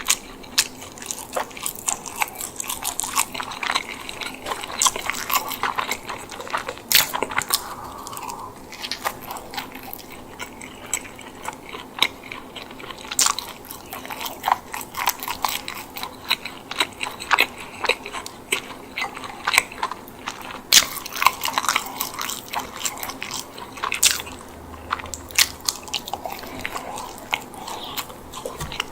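Close-miked eating of a chicken bake, a baked bread roll filled with herb chicken and mozzarella: a steady stream of crisp crust crackles, bites and chewing, irregular and unbroken.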